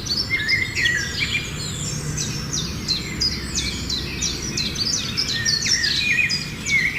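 Several small birds chirping and singing at once, a dense run of quick, overlapping high notes, over a steady low rumble.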